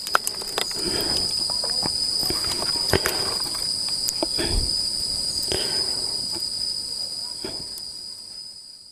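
Insects droning steadily at a high pitch, with scattered light clicks and knocks over it; the sound fades out near the end.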